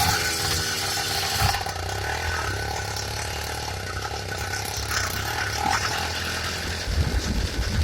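Motorized bicycle's GT80 two-stroke kit engine running. Its note falls in pitch over the first second and a half, then settles into a steady low drone.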